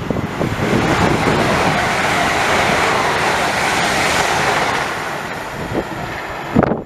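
A train passing through the station at speed: a loud rush of wheel and air noise that swells in the first second, holds, then eases and cuts off abruptly near the end, with wind buffeting the microphone.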